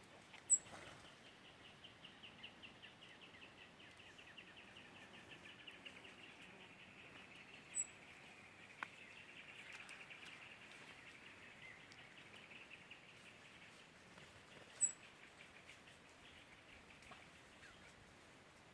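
Wild birds calling: one keeps up a long, rapid, even series of notes that swells and fades, while a short, sharp high note rings out about every seven seconds, louder than everything else.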